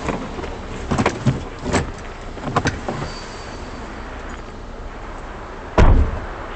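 A steady low vehicle rumble with a few sharp clicks and knocks, then one loud heavy thump close to six seconds in.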